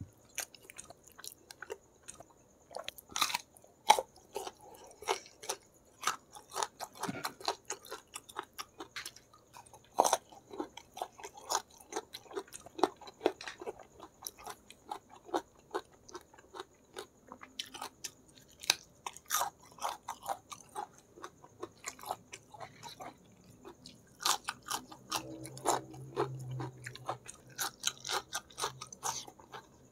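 Close-miked eating sounds of a person chewing spicy food: a steady run of wet chewing and smacking with many sharp clicks and crunchy bites.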